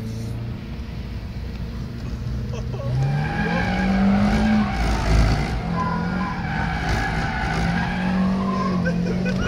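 A 200-horsepower SEAT Ibiza's engine heard from inside the cabin, driven hard: its pitch climbs about three seconds in, falls back once near the middle, then rises slowly again. Tyres squeal over the engine.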